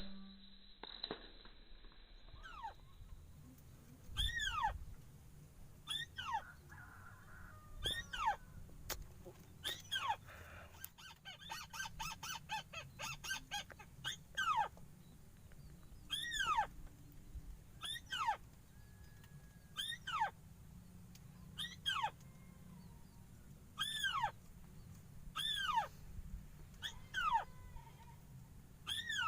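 A bird call repeated about every two seconds: each a short note that rises and falls, often given twice in quick succession. Around the middle there is a quick run of clicks.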